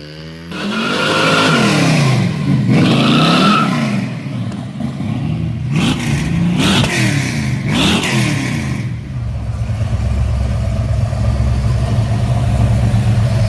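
1955 Chevy truck's 468 cubic-inch big-block Chevy V8 revved in about five quick blips, each rising and falling, then settling into a steady idle about nine seconds in.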